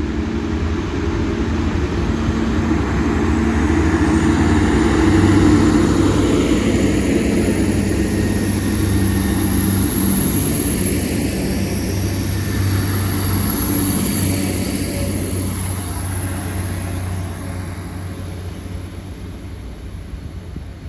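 Class 175 diesel multiple unit pulling away, its diesel engines running under power as it accelerates past. The noise builds over the first five seconds or so, stays loud, then fades away over the last few seconds.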